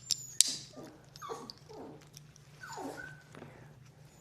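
A poodle whining in several short, falling whimpers, with a couple of sharp clicks near the start.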